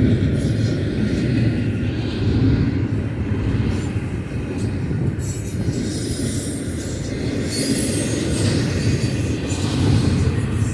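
BNSF double-stack container freight train rolling past, a steady rumble of wheels on rail. Thin high squeals come and go, most noticeably about two-thirds of the way through.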